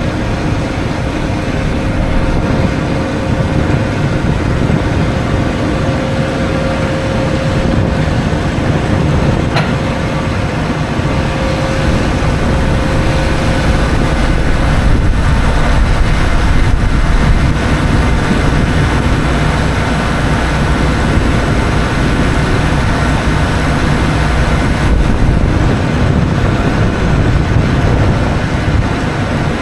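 Steady, loud rumble of a heavy truck running: engine and road noise, with a faint steady whine that fades out about halfway through.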